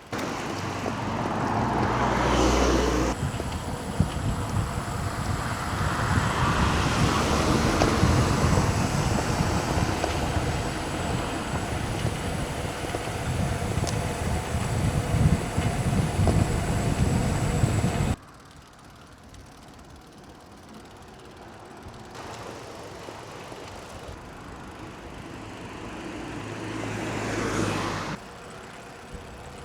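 Motor vehicles passing on a road, one in the first few seconds and another near the end, over a rough, fluttering rumble of wind and road noise while riding. The sound drops abruptly about two-thirds of the way through and changes again near the end.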